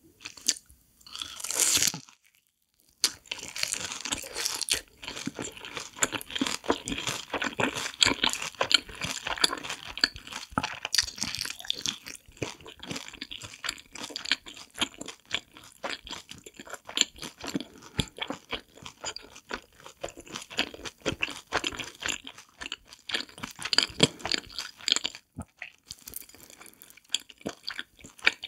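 Close-miked crunching and chewing of a crispy, seasoning-coated corn dog dipped in creamy sauce: a bite about a second in, then dense, irregular crunching, with a short pause near the end before it resumes.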